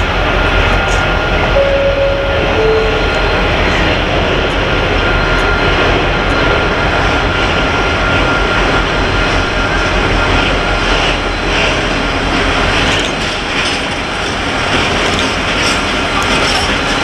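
M62-class diesel locomotive hauling a freight train of open wagons past at speed. The engine's deep rumble dominates as it approaches, then fades about three-quarters of the way through, giving way to the rhythmic clickety-clack of the wagons' wheels over rail joints.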